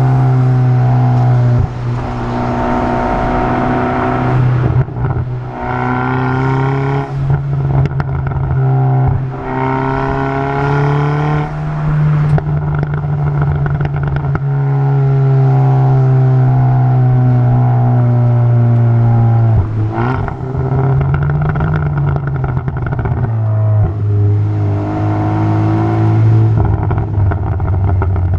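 Muffler-deleted exhaust of a 2020 N Line car, heard from outside, idling with a steady low drone and revved up and back down a few times. The secondary catalytic converter and the resonator are still in place.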